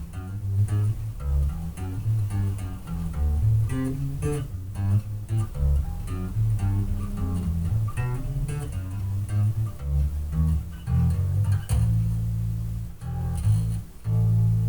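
Electric bass guitar played through a bass amp cabinet and picked up by a webcam mic across the room: a run of plucked low notes in quick succession, settling into longer held notes near the end.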